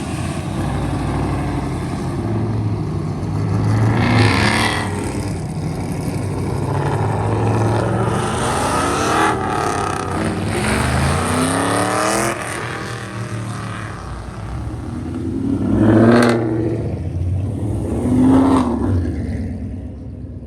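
Car engines revving and accelerating, rising in pitch several times, with two louder revs in quick succession near the end.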